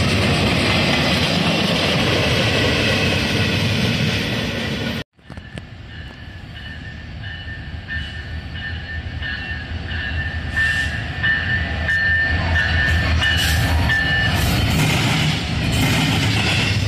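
Freight cars rolling past on steel rails with a dense, steady rumble, cut off abruptly about five seconds in. A double-stack intermodal train then comes by, growing louder, with a steady high wheel squeal and wheel clicks over the rail joints.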